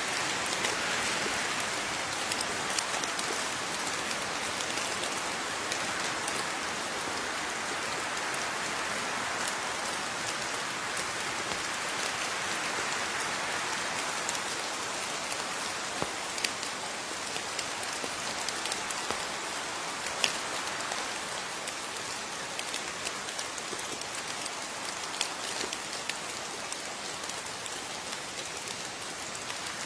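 Steady rain falling, with many individual drops pattering on a surface and scattered sharper drip ticks.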